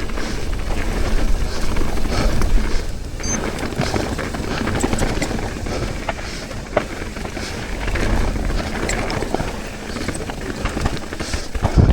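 Mountain bike descending a dirt singletrack trail: a continuous rush of tyre and wind noise, with frequent sharp clicks and rattles from the bike over bumps.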